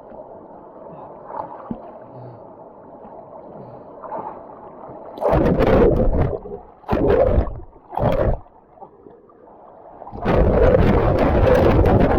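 Water splashing and sloshing around a sea kayak in four loud bursts, about five seconds in, then twice more in quick succession, then a longer one near the end, after faint lapping at the start.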